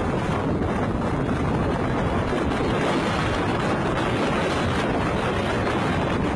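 Strong storm wind blowing steadily and buffeting the microphone.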